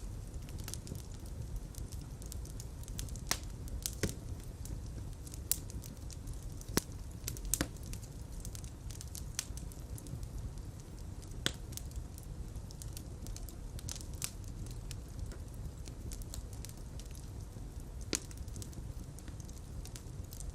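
Open fire crackling: irregular sharp pops and snaps over a steady low rumble of flames.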